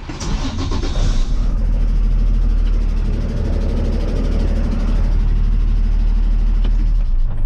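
Heavy truck engine running steadily, louder from about a second in and dropping off right at the end.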